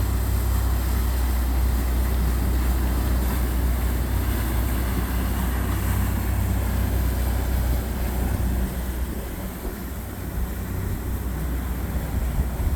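Motorboat engines running as a boat passes, a steady low rumble that eases off a little about nine seconds in and then builds again.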